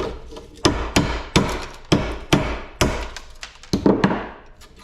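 Hammer striking a scrap metal part repeatedly: about ten sharp blows, each with a brief ring.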